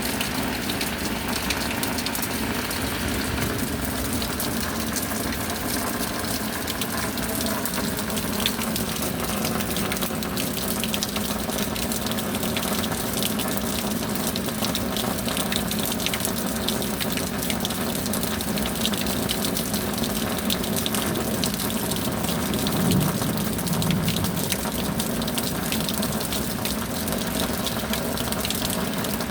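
Steady rain, a dense even hiss speckled with the ticks of many drops, swelling briefly about two-thirds of the way through.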